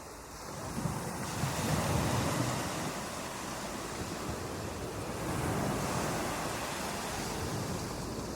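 Ocean waves breaking on a beach: a surge of surf that builds over the first two seconds and eases off, then a second wave swelling in a few seconds later.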